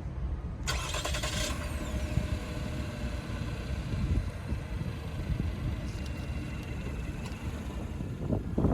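Vehicle sound: a steady low rumble of car and road noise, with a brief hiss about a second in.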